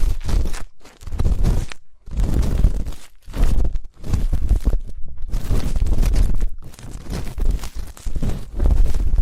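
Ear-cleaning tools scraping and rubbing close against a microphone's ear, in irregular scratchy strokes with a deep rumbling rub under them and brief pauses between strokes.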